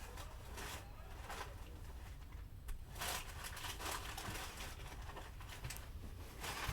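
Train wheels clattering over rail joints under a steady low rumble of the moving train, with several hissy knocks spaced unevenly.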